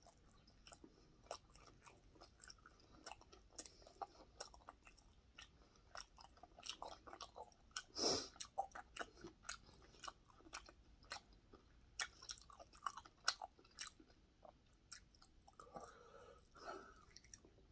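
Close mouth sounds of a person chewing food, with faint wet smacks and small crunches. A short, louder breath comes about eight seconds in.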